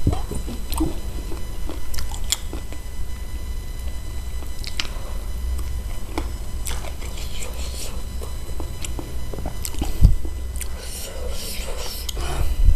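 Close-up eating sounds of someone chewing and sucking on spicy chicken feet: wet mouth clicks and smacks scattered irregularly over a steady low hum, with one loud thump about ten seconds in.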